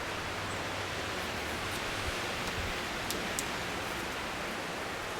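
Steady, even hiss of background noise with no pitched sound in it, and two faint clicks about three seconds in.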